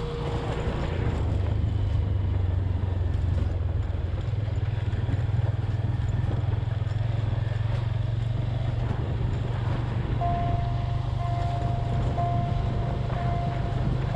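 Motorcycle engine running at a steady cruising speed, with road and wind noise. From about two-thirds of the way through, a faint high tone repeats about once a second.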